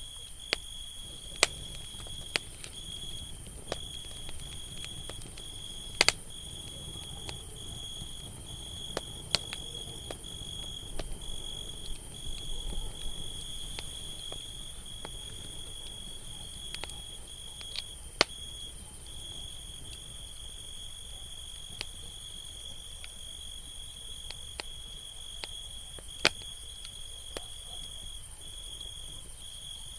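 Campfire crackling, with sharp pops every few seconds and a busier stretch of crackle about ten seconds in. Behind it runs a steady, high cricket trill with brief breaks.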